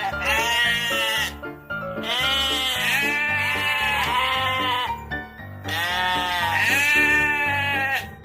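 Repeated drawn-out bleating in three runs, each call rising and falling in pitch, over steady background music.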